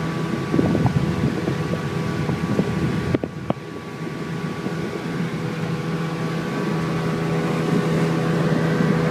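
Airboat engine and propeller running steadily under way. About three seconds in the throttle eases off and the sound drops, then it builds back up gradually.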